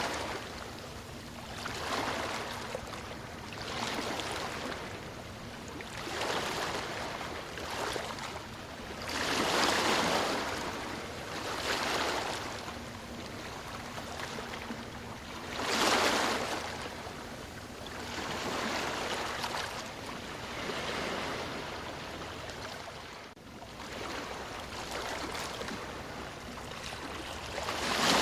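Ocean surf washing ashore in a steady rhythm, one wave after another every few seconds, with a few stronger waves breaking louder.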